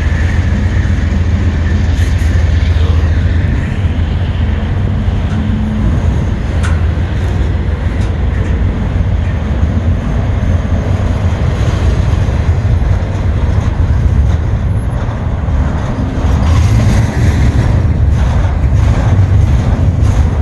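Freight train rolling past: a loud, steady low rumble of wheels on rail, with a few sharp clanks scattered through.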